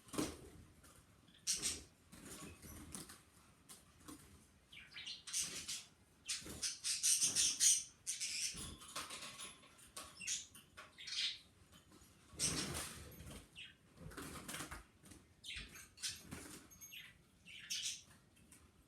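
A small pet bird's wings flapping and fluttering in short, irregular bursts of rustling.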